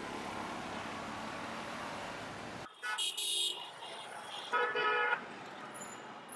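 Steady street traffic noise that stops suddenly, followed by two short car horn honks.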